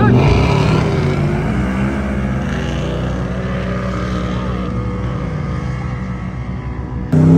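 Four-wheel-drive engine revving hard on a hill-drag run: pitch climbing at the start, then holding steady at high revs. About seven seconds in, a sudden jump to a louder engine revving up and dropping back.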